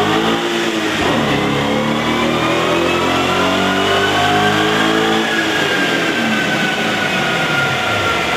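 Audi S5 engine with a STaSIS Signature aftermarket exhaust, run hard on a chassis dyno. The exhaust note dips briefly about a second in, rises steadily in pitch for about four seconds, then falls slowly as the revs come down.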